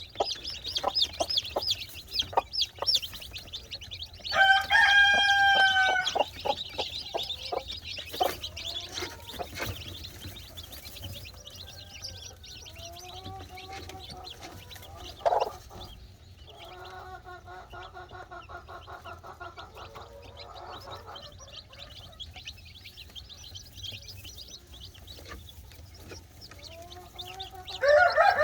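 Free-range chickens: a hen clucking and chicks peeping rapidly. A rooster crows loudly about four seconds in and again near the end, with another long call in between.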